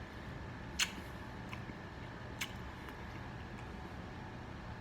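Quiet eating noises: two short sharp clicks about a second and a half apart, over a steady low hum.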